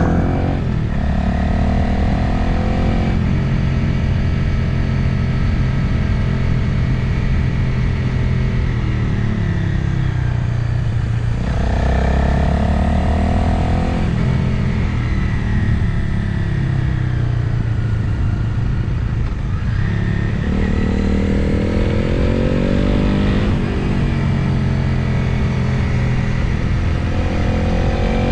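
Motorcycle engine under way, its note pulling up and easing off several times as the rider works the throttle and gears, over a steady rush of wind on the helmet or bike camera.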